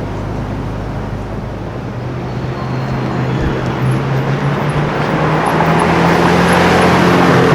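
A car's engine running at a steady low drone, with tyre and traffic noise growing louder over the last few seconds as it comes closer.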